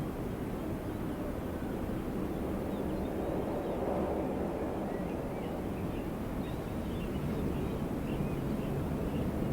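Steady, low wind, with faint high bird chirps scattered over it that become more frequent about a third of the way in.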